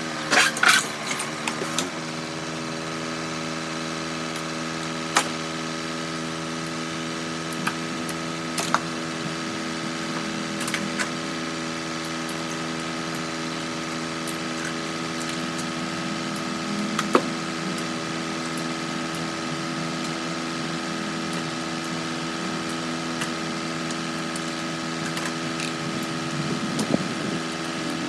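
A machine's motor starting up and running with a steady, even hum, its pitch settling within the first couple of seconds, with scattered light clicks and knocks.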